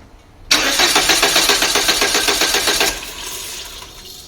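Peugeot 408 engine turned over on its starter motor for about two and a half seconds with a quick, even pulsing, then stopping. The engine is being cranked to check oil delivery, and the mechanic finds it is not getting oil up.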